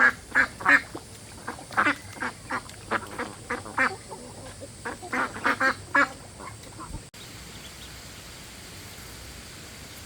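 Ducks quacking: a rapid run of short, loud calls that cuts off abruptly about seven seconds in.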